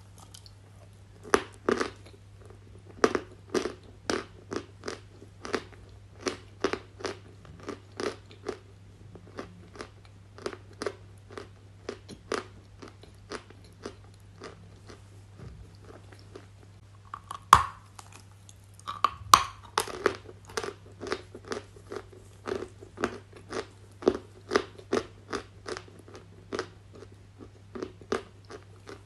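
Close-up crunching and chewing of something brittle, a sharp crunch about twice a second, with a few louder bites about two-thirds of the way through. A faint steady low hum lies underneath.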